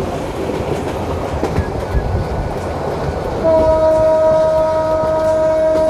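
Passenger train running, with rumble and rattle coming in through an open carriage window. About three and a half seconds in, the train horn starts and holds one steady tone.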